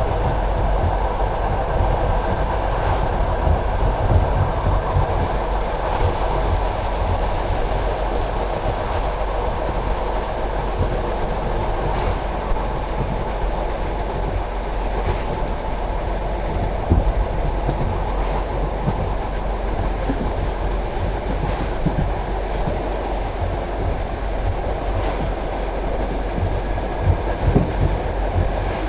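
Passenger train carriage running along the track: a steady rumble of wheels on rails, with a light click every second or two as the wheels pass rail joints.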